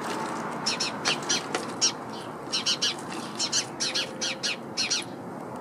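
A small bird chirping repeatedly: a dozen or so short, high, sharp chirps, often in quick pairs or clusters, from a bird trapped inside a bird feeder.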